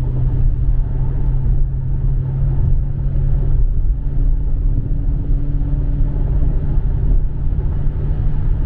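Dodge Charger Scat Pack's 6.4-litre 392 Hemi V8 running at steady speed on the road, a constant low drone with little change in pitch.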